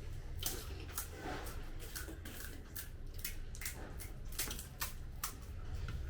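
Crisp fuchka (pani puri) shells crunching as they are bitten and eaten: many irregular sharp crackles and clicks.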